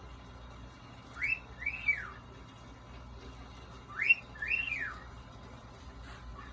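Cockatiel whistling the same short phrase twice, about three seconds apart: a quick rising note, then a note that rises and falls.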